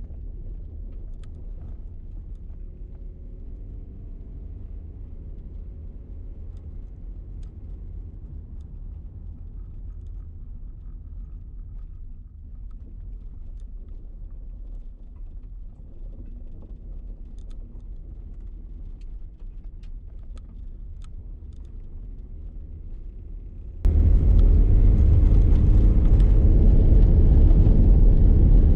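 Toyota Prius driving on a rough logging road: steady low road rumble with a faint engine hum that rises and falls. About 24 seconds in, the sound jumps abruptly much louder and stays loud.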